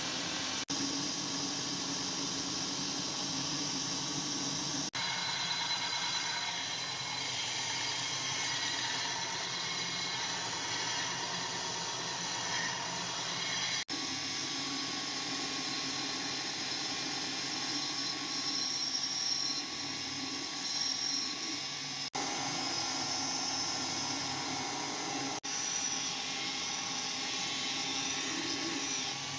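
Electric grinder running steadily on steel, with a thin whine over a rushing grind, in several edited stretches that cut in and out abruptly.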